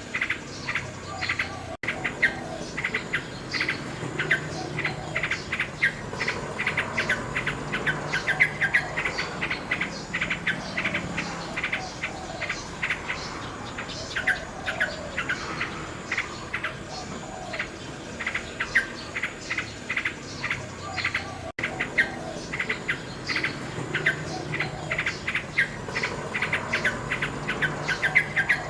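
Common nightingale song: rapid repeated notes and trills over a dense background of chirping. The sound cuts out for an instant twice, about two seconds in and again about twenty-two seconds in.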